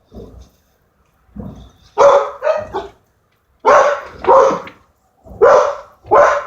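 Pet dog barking repeatedly in short, loud barks, several coming in quick pairs. It is agitated by a rumbling noise overhead.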